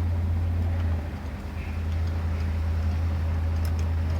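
Steady low hum in the background, dipping briefly about a second in, with a few faint light ticks near the end.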